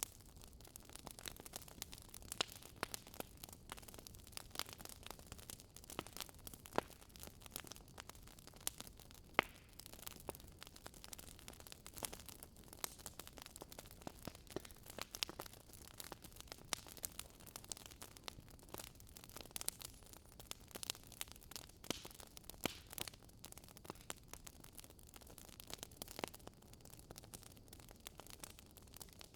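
Wood logs burning in a fireplace: irregular crackles and small pops over a soft steady hiss, with a few sharper pops standing out.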